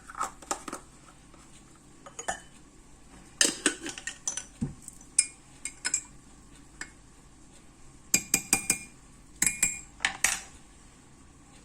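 Metal kitchen utensils and dishes clinking and knocking against each other and a pot, in several short clusters of sharp clinks with brief ringing.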